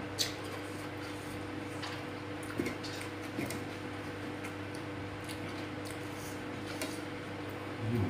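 Close-up mukbang eating sounds: a person chewing soft food such as rice and tofu with sambal, with a few small wet clicks and smacks, over a steady electrical hum. A short low vocal sound comes near the end.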